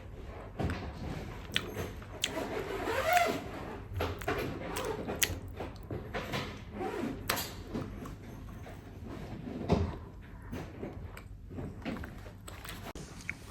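Scattered small clicks and knocks of things being handled in a room, with a faint murmur a few seconds in.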